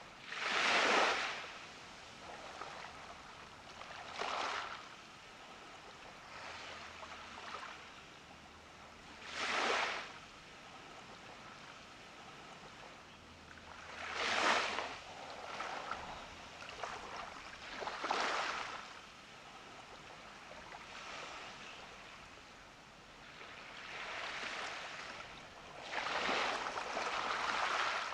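Small ocean waves breaking and washing up on a beach, a surge of surf every four or five seconds between quieter wash.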